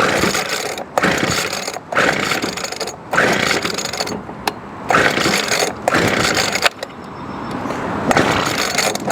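Recoil starter of a Weedeater Featherlite SST25 25cc two-stroke trimmer being pulled over and over, about once a second, on full choke after priming. Each pull is a scraping, ratcheting whir as the engine turns over without catching.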